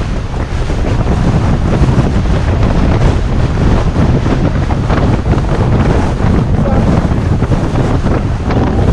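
Strong gusting wind roaring over a mountain ridge, buffeting the microphone with a loud, rumbling wind noise that surges and falls.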